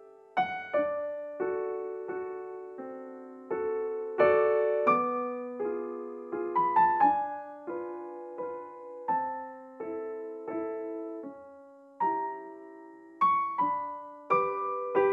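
Background piano music, a slow melody of single struck notes and chords, each note left to ring and fade.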